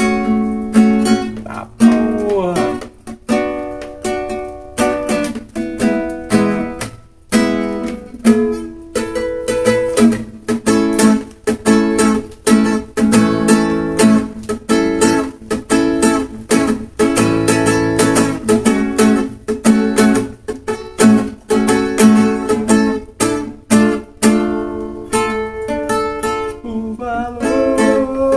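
A plucked acoustic string instrument, strummed and picked, playing a melody with many quick notes, worked out by ear.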